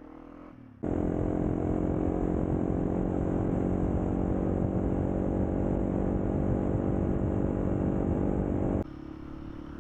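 Motorcycle engine running at a steady speed under a steady rush of wind noise. It cuts in suddenly about a second in and cuts out just as suddenly near the end.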